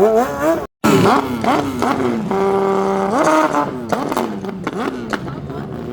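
A racing motorcycle engine revving hard at a drag strip, its pitch repeatedly climbing and falling, held steady for a moment midway, then climbing again. The sound cuts out briefly near the start.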